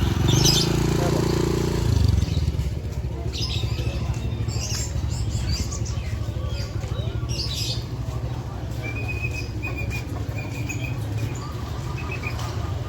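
Market birds chirping in short high bursts over a steady low rumble, with a repeated high whistled note starting about nine seconds in. A lower pitched drone stops about two seconds in.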